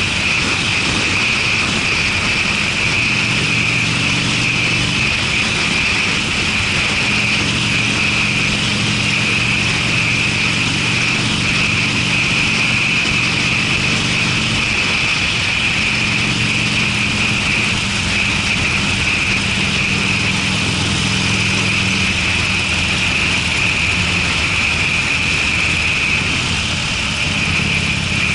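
Harley-Davidson Sportster V-twin running through Screamin' Eagle mufflers while riding, a steady deep exhaust note that shifts slightly in pitch a few times. A steady high hiss runs over it.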